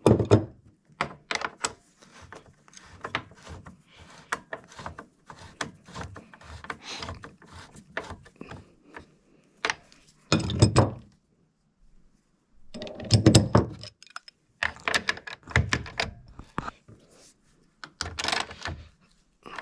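Irregular metal clinks, taps and knocks of a wrench and engine mount bolts against the motorcycle's engine and frame, with heavier bursts of clunking in the second half.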